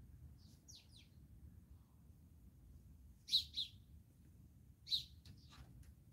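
Small birds chirping: a few faint falling calls early, then a loud pair of chirps about three seconds in and another loud chirp near five seconds, followed by quick fainter calls, over a steady low rumble.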